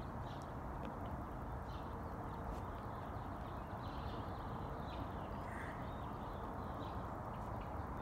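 Steady outdoor background hiss with faint, scattered bird calls, one a little stronger about five and a half seconds in.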